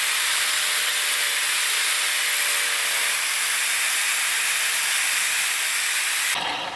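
Angle grinder grinding down the edge of an aerated-concrete block: a steady, dense abrasive hiss with a faint motor whine underneath, cutting off suddenly near the end.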